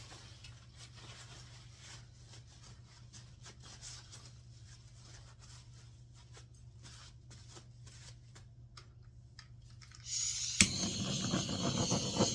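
Faint rustling and rubbing as paint-covered hands are wiped clean. Near the end a loud, steady hiss with a low rumble starts suddenly, with a sharp click just after it begins.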